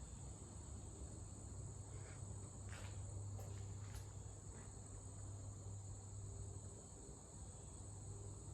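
Faint, steady, high-pitched insect trill over a low hum, with a few soft ticks around the middle.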